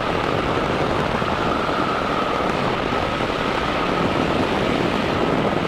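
Small aircraft's engine and propeller running steadily in flight, heard from on board with wind rushing past, with a faint steady whine over the noise.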